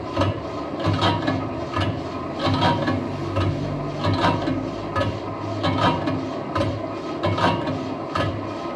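Lathe turning a truck wheel rim: a steady machine hum with sharp metallic knocks repeating about once or twice a second.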